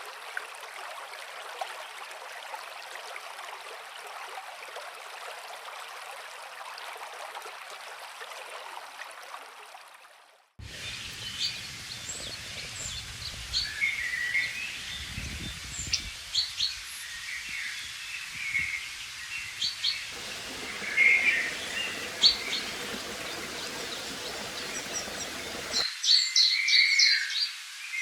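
Steady rush of a flowing river, fading out about ten seconds in. It is followed by songbirds chirping and singing in many short calls, busiest near the end.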